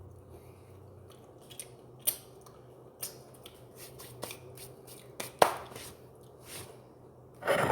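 Scattered small clicks and taps from hands handling food and kitchen items, the sharpest about five and a half seconds in, with a louder rustling burst near the end, over a faint steady hum.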